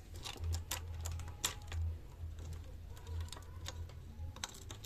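Irregular light clicks and taps of hand tools and small parts being handled while a scooter engine is taken apart, over a low steady hum.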